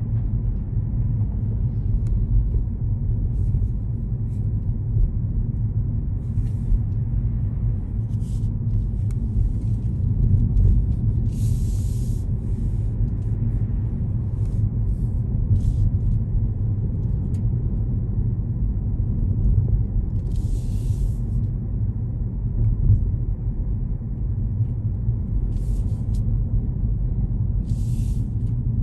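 Road noise of a car being driven, heard from inside the cabin: a steady low rumble of engine and tyres, broken by several short hisses, the longest about twelve and twenty seconds in.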